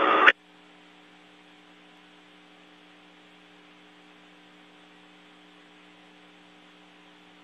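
Steady low hum with a faint hiss and several fixed tones underneath, the open-channel background of the space station's radio downlink audio. It sets in right as a voice stops, about a third of a second in.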